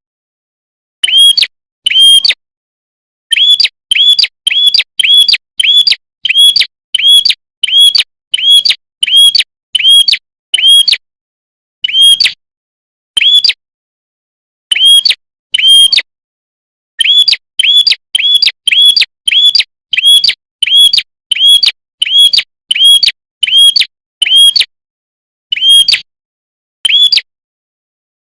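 Prenjak (prinia) lure call: a bird repeats the same short, sharp, high chirp over and over in rapid runs of about two notes a second, with a short pause partway through.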